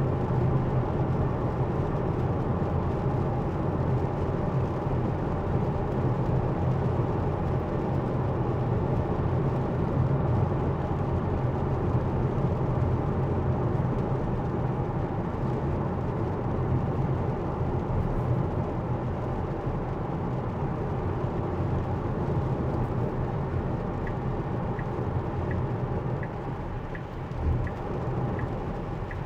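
Steady tyre and road noise inside a Tesla's cabin on a rain-wet freeway. Near the end, a turn-signal indicator starts ticking, about one tick every 0.7 s.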